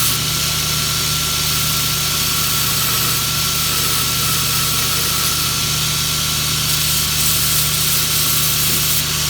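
Belt grinder running steadily with a high hiss as steel is ground, shaping the finger spot of a knife blade.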